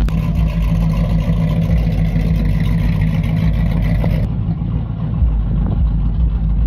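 A car engine idling with a steady, deep exhaust rumble. A hissier upper layer drops away abruptly about four seconds in.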